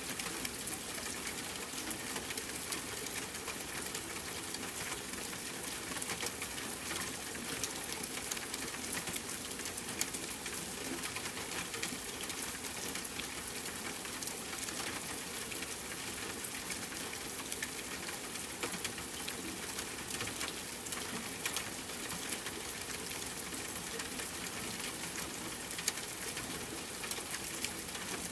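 Steady rain falling, with many small drops pattering.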